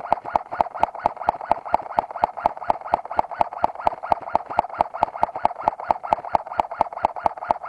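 An electric airsoft gun's gearbox cycling in a long automatic run, about five sharp clicks a second over a steady motor whine, and stopping abruptly at the end.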